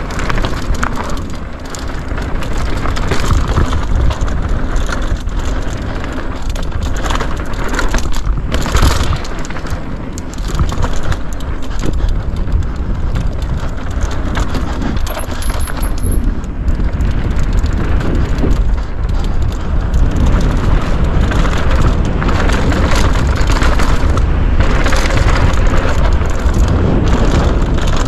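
Mountain bike riding fast down a dirt bike-park trail, heard from a chest-mounted action camera. The tyres rumble over the ground while the chain and frame rattle and clatter, under a constant low rumble of wind and ground noise, with louder rough stretches.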